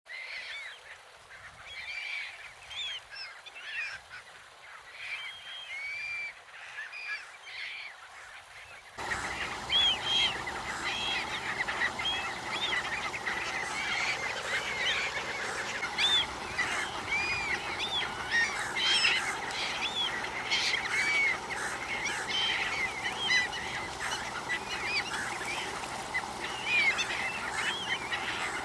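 A flock of gulls calling over one another: many short, arched, squealing calls. About nine seconds in, the calls get louder and a steady low rush joins them.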